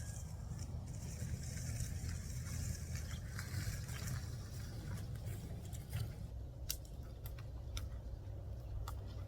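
Branches being trimmed off a large stick: a few sharp snaps or clicks, mostly in the second half, over a steady low rumble.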